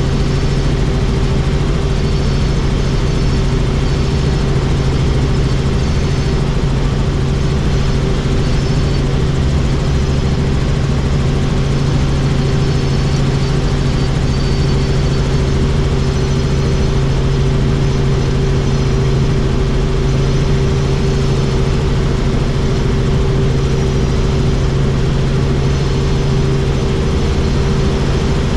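Helicopter in flight heard from inside the open-door cabin: a steady, unchanging drone of engine and rotor over a constant rush of air.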